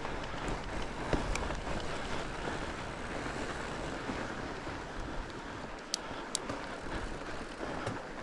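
Steady wind noise on the microphone over the rolling rumble of a fat bike riding a trail, with two sharp clicks about six seconds in.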